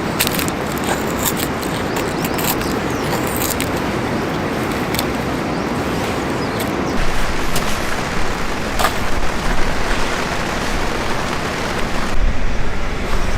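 Wood campfire burning with a steady rushing noise and scattered sharp crackles and pops.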